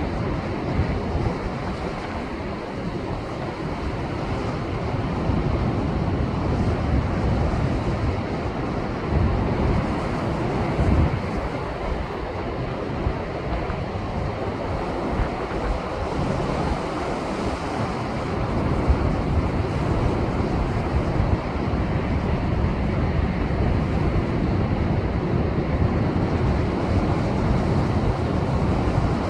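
Rough post-typhoon swell breaking on a rocky seashore: a continuous rush of churning surf that swells and eases as each wave surges in.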